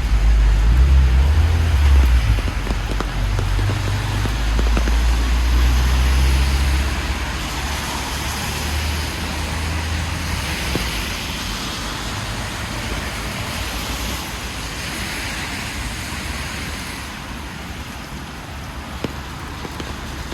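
City traffic passing on a wet street: tyres hiss on the rain-soaked road as vehicles go by, and a heavy low rumble in the first several seconds fades away.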